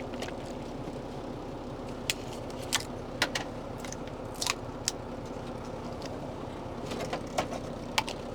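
Vehicle engine idling with a steady hum, while small objects are handled nearby, giving about a dozen scattered clicks and rattles.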